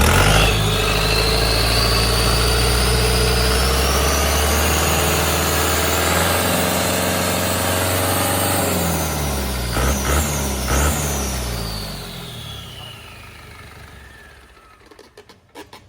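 4102QBZL four-cylinder diesel truck engine revved up hard and held there, with a turbo whine that climbs for several seconds. It drops back, is blipped twice in quick succession about ten seconds in, then winds down with the whine falling away.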